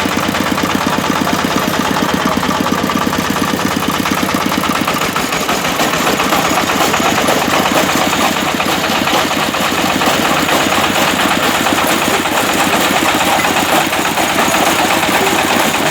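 Engine-driven brick breaking machine running steadily, loud, with the engine's rapid even beat under a continuous mechanical din.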